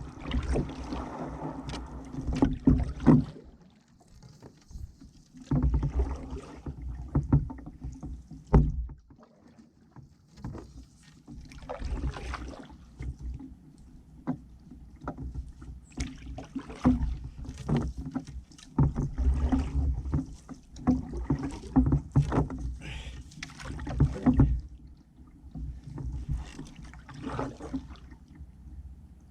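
Canoe paddling: a wooden paddle dipping and pulling through the water in uneven runs of strokes with splashes, drips and sharp clicks, pausing for a second or two between runs.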